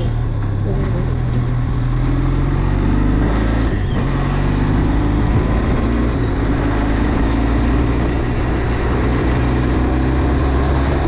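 Benelli TRK 502's parallel-twin engine running steadily on the move, under a steady rush of wind and road noise. Its pitch dips and rises a little a few seconds in.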